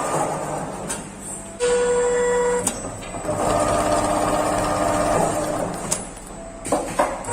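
Automatic stitch tufting sewing machine stitching tacks into a round cushion. It runs in bursts of fast stitching, separated by short pauses and sharp clicks as the machine moves to the next tack point.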